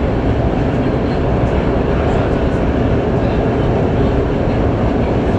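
Qingdao Metro Line 8 train running at speed through a tunnel, heard from inside the car: a steady, loud, low rumble of wheels on rail.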